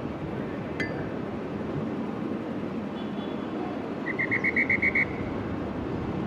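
City street ambience: a steady low background of urban noise, with a short, rapid, high trill of about eight quick pulses about four seconds in.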